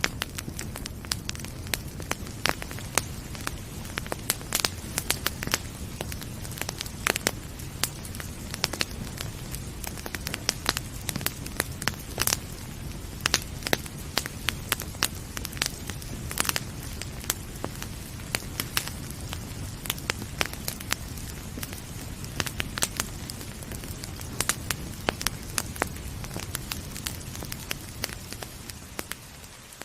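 Wood fire crackling, with frequent irregular sharp pops and snaps over a steady low rumble of the flames; the sound dips slightly right at the end.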